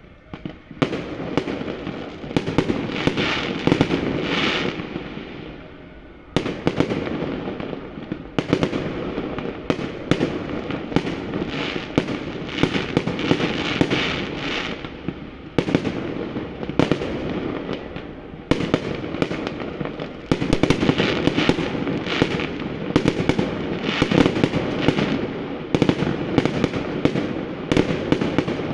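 Fireworks display: a dense, rapid string of bangs and crackling bursts that swells and eases in waves every few seconds.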